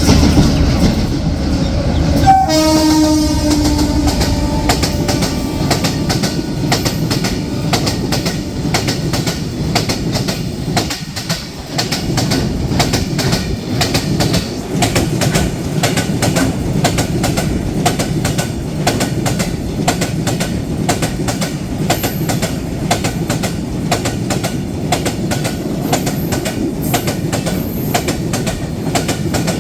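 Freight train passing close by, its wheels clattering rapidly and steadily over the rails. The horn sounds once, a short blast about two seconds in.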